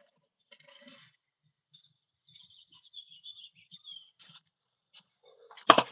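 Faint high chirping of a small bird, wavering for a couple of seconds, among a few soft ticks, then one sharp loud click near the end.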